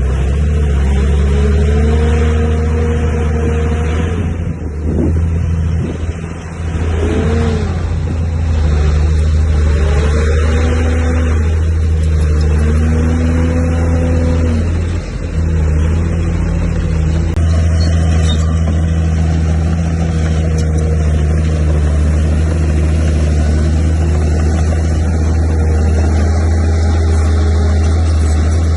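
Heavy diesel engine of earthmoving machinery running loud and steady, with a few short whines that rise and fall in pitch over the drone in the first half.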